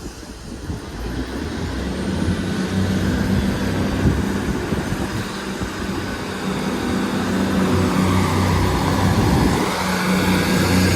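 Class 158 diesel multiple unit pulling away from the platform, its underfloor diesel engines running under power. The steady low engine note comes in about two seconds in and grows louder.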